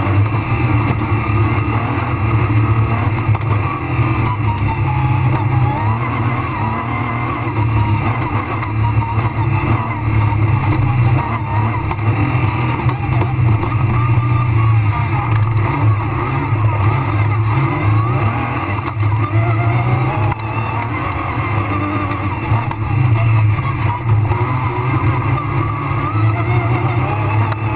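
Rally car engine heard from inside the cabin, running hard with the revs repeatedly rising and falling through gear changes and corners.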